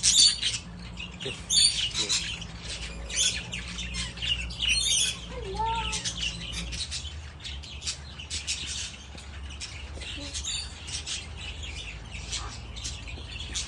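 Birds chirping and squawking, many short high-pitched calls coming in quick clusters, with a couple of lower gliding calls about six seconds in.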